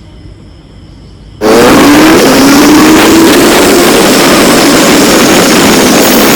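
Motorcycle engine accelerating under heavy wind rush on the microphone, starting abruptly about a second and a half in, its pitch rising steadily as it picks up speed.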